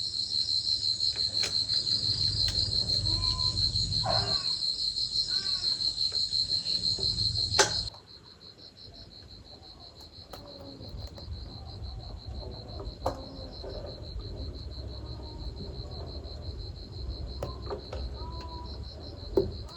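Insects trilling: a fast, even pulsing high-pitched chirr, loud for about the first eight seconds, then dropping off suddenly and carrying on fainter. Short bird chirps come now and then, with a sharp click where the trill drops and another near the end.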